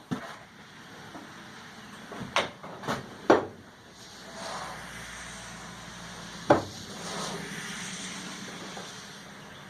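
A few separate knocks and clunks of wood and metal being handled, four of them spread apart, as a glued wedge is readied and set into the top of a hammer's hickory handle.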